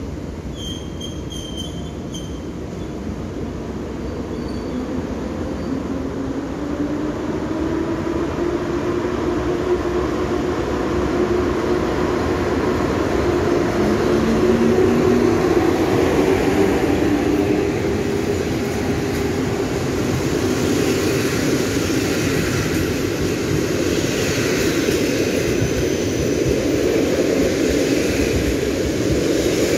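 EU07-family electric locomotive hauling a passenger train away from the platform and past at close range. Its motor hum rises in pitch as it accelerates, and the coaches' wheels roll over the track, growing louder toward the end. A few short high-pitched tones sound about a second in.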